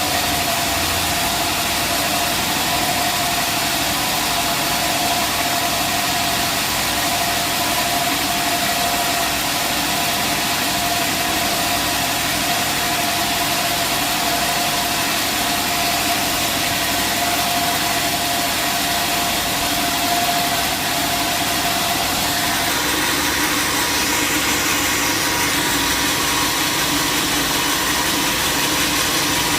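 Sawmill machinery running steadily, with a steady whine over the noise that stops about three quarters of the way through, after which the machine noise shifts.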